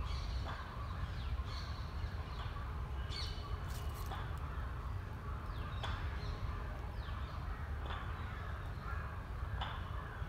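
Birds calling in the trees: many short calls scattered through, over a steady low rumble.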